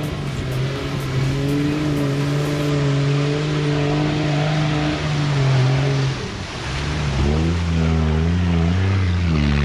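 Off-road 4x4's engine running at a steady pitch under load, then dropping lower about six seconds in and rising and falling as it is revved.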